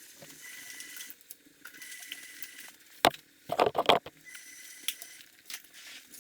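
Wrench and angle gauge at work on the cylinder head bolts: a sharp knock about halfway through, then a short clatter of knocks, with a few lighter clicks later over a faint background.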